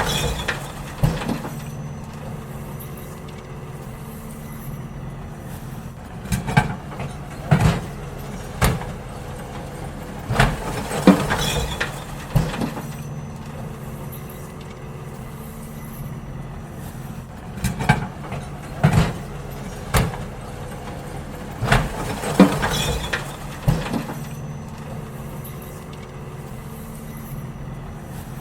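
Garbage truck engine running steadily while bins are emptied, with clusters of metallic clanks and bangs every few seconds.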